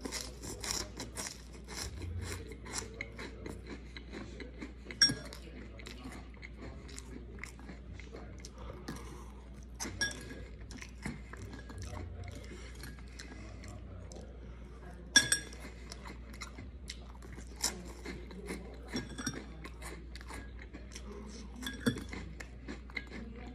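Close-up chewing and crunching of Flamin' Hot fries, with a metal fork clinking sharply against a bowl about five times, each clink briefly ringing.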